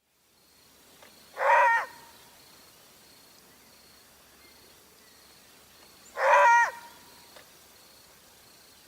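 An animal calls twice, about five seconds apart: two short, matching calls, each holding one pitch and dropping at the very end.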